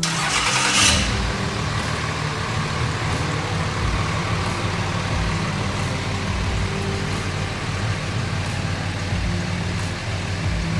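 Ram 3500's Cummins inline-six turbo diesel running at a steady idle, with a brief burst of noise about half a second in.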